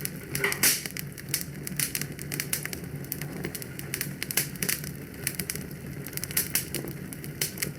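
Fire in a fireplace crackling: many irregular sharp pops and snaps, a few louder ones, over a steady low background noise.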